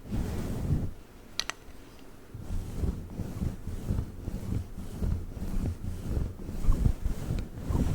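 Fluffy microphone cover rubbed in irregular strokes right against the mic, a muffled low rustling. It pauses about a second in, where there is one brief high squeak.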